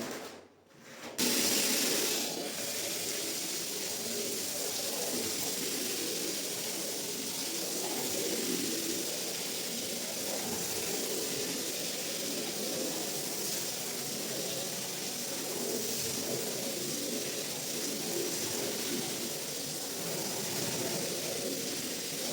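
Steady hiss of water spraying, starting suddenly about a second in and running evenly.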